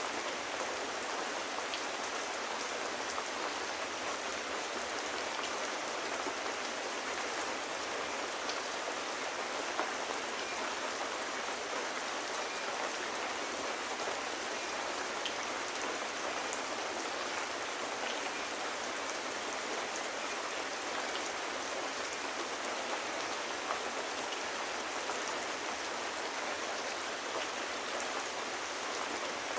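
Steady, even rain falling, with scattered faint ticks of individual drops.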